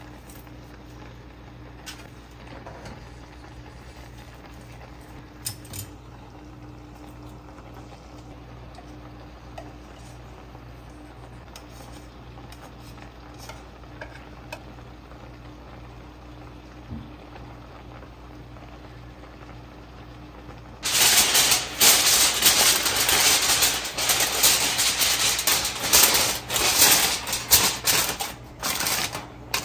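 Low steady hum with a few faint clicks, then about two-thirds of the way in, loud, dense crackling sizzle starts abruptly: food frying in hot oil in a pan.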